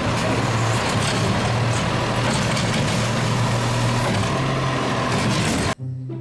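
Heavy truck engine running steadily with a low hum and a noisy rush, cut off abruptly near the end.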